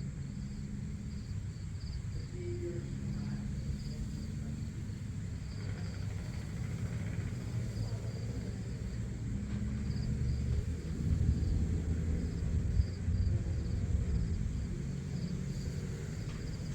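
Outdoor dawn ambience: a faint high insect chirp pulsing about two or three times a second over a steady low rumble.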